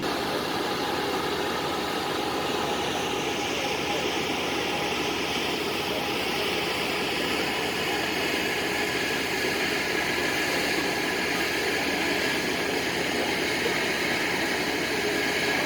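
A steady engine running, with a constant hiss laid over it and no breaks or changes.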